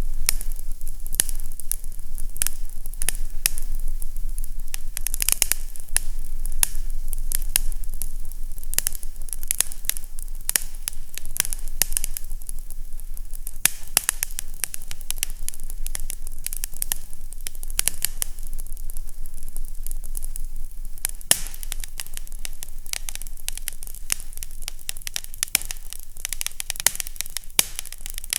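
Fireplace fire crackling: a steady stream of small sharp pops and snaps over an even hiss, with a constant low hum beneath.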